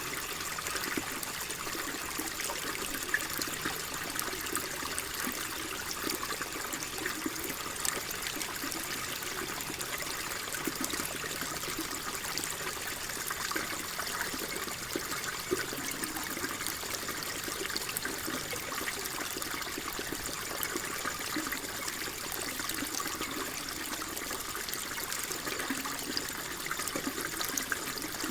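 Water flowing and trickling steadily, a continuous splashing babble with small bright droplet sparkles.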